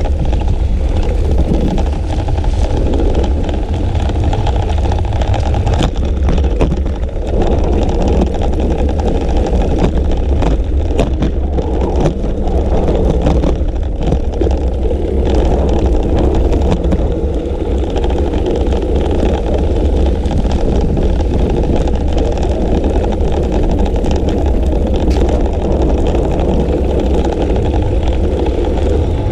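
Steady low rumble of wind buffeting a GoPro's microphone while riding a bicycle along a road, mixed with tyre and road noise.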